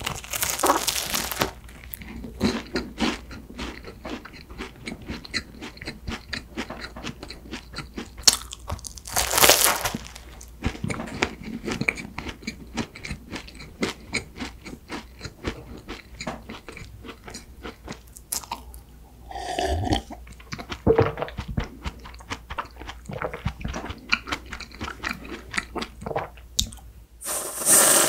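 Close-miked eating of a chocolate-coated pastry: a crunchy bite, then steady crisp crunching and chewing, with another loud bite about nine seconds in. Near the end comes a loud hiss of aerosol whipped cream spraying from a can.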